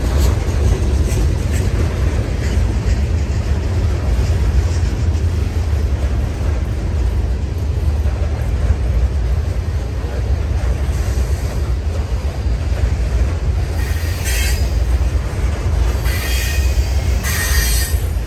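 Freight train of tank cars and open-top hopper cars rolling past, with a steady low rumble of steel wheels on the rails. Brief high wheel squeals come about 14 seconds in and again near the end.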